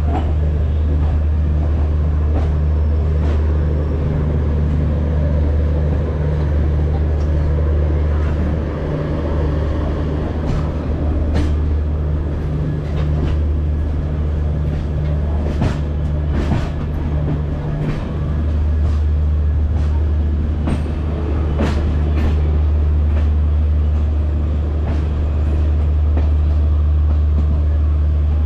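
Passenger express train running on the rails, heard from aboard: a steady low rumble with scattered sharp clicks and knocks of the wheels over the track, most of them in the middle stretch.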